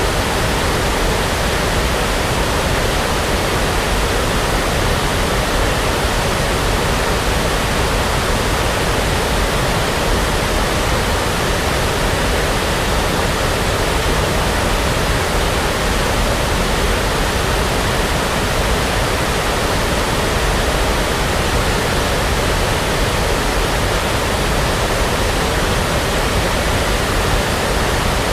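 Steady, continuous synthetic noise of the brown-noise kind used as a sleep sound, an even rushing hiss with no change in level.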